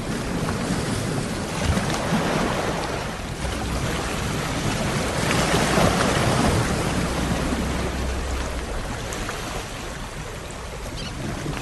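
Sea waves washing onto the shore, one swell building to its loudest about halfway through and then easing off.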